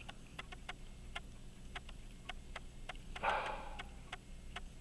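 Light, sharp ticking clicks, several a second and unevenly spaced, with a short breathy rush a little over three seconds in.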